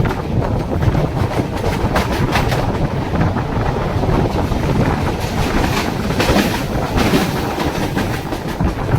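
Mumbai suburban local train running on the line: a steady rumble and rattle of wheels on track, with clusters of clacks over rail joints about two seconds in and again around six to seven seconds.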